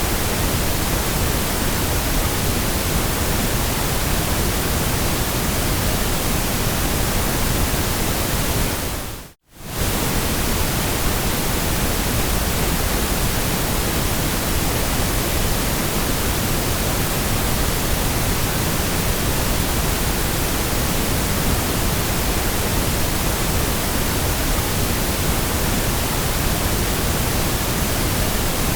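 Steady white noise, an even, unchanging hiss. It dips briefly to silence about nine and a half seconds in, then resumes at the same level.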